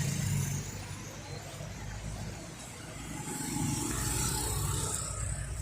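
Street traffic: passing car engines and tyre noise. It is louder at the start, fades, then builds again a little past halfway as another vehicle approaches.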